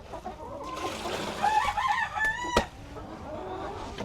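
Chickens calling, with a rooster crow of about a second and a half near the middle, followed at once by a sharp knock.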